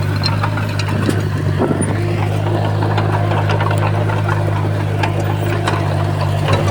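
Komatsu D51PX bulldozer's diesel engine running steadily, with scattered clicks and clanks on top.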